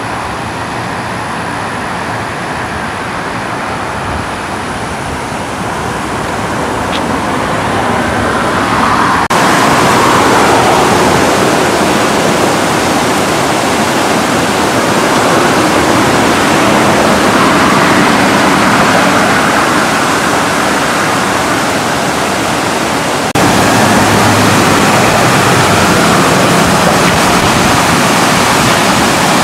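Floodwater rushing down a swollen creek: a loud, steady hiss of fast turbulent water. It gets louder abruptly about nine seconds in and again near the end.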